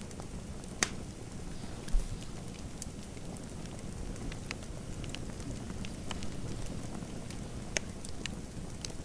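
Fireplace crackling: a steady low rush with scattered sharp pops and ticks, and a dull low thump about two seconds in.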